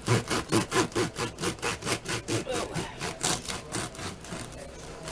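Knife sawing back and forth through a freshly baked sourdough loaf, quick even strokes rasping through the crust, easing off near the end.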